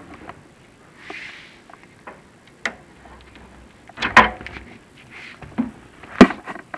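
Chimney inspection camera and its push rods knocking and scraping against creosote-coated flue tile as the camera is worked down the flue: scattered clicks, brief scrapes, and two louder knocks about four and six seconds in.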